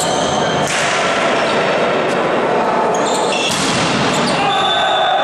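Ball game in an echoing sports hall: a ball thudding on the court, with players' and spectators' voices and short high squeaks.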